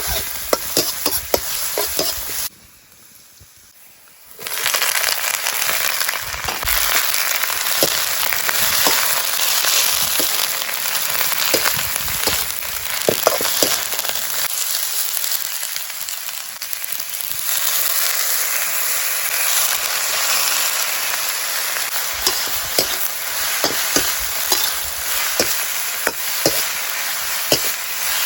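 Cabbage stir-frying in a hot pan: a steady sizzle with many small clicks and scrapes of a spatula stirring it. The sizzle drops away briefly about two and a half seconds in, then returns.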